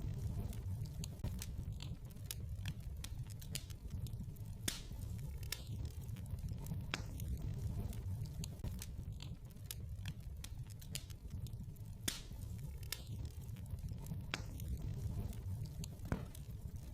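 Wood fire burning in a fireplace: a steady low rumble of flames with irregular sharp crackles and pops, a few of them louder snaps.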